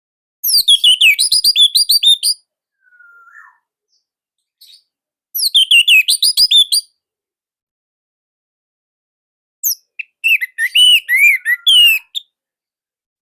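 Orange-headed thrush singing: three phrases of quick, varied whistled notes, each about one and a half to two and a half seconds long, with short pauses between them.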